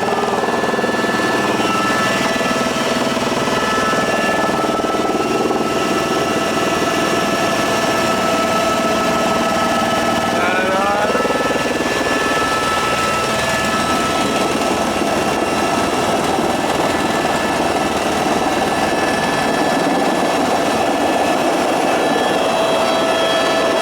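Helicopter running steadily: an even, constant roar with several steady whining tones over it.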